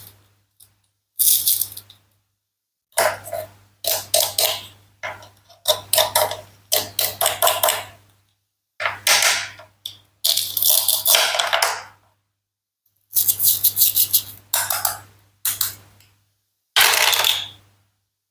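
Toy fruits and vegetables of plastic and wood being cut and handled: about a dozen short bursts of clicking and clattering, with dead silence between them.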